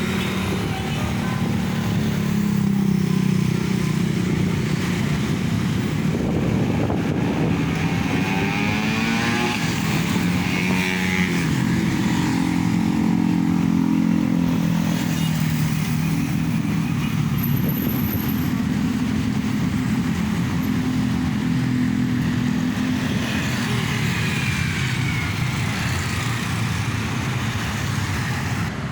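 A motor vehicle's engine running on the road, its pitch rising and falling with speed, with a vehicle sweeping past about ten seconds in.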